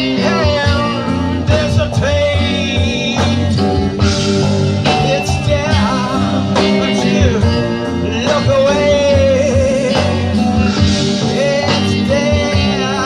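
A live band playing a rock song: a singer holding wavering notes over guitar, bass and drums.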